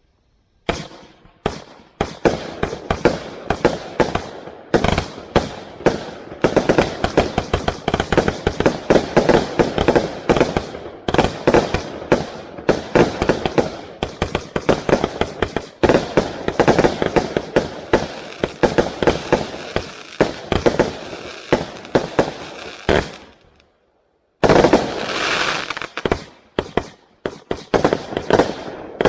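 A 200-shot Category F2 compound fireworks cake firing a rapid, dense volley of overlapping shots and bursts. It breaks off for about a second near the end, then resumes with a loud burst.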